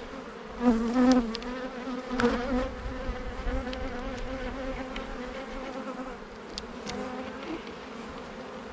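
Many honeybees buzzing around an open hive, a steady hum, with a few light clicks and knocks in the first couple of seconds and a couple later on.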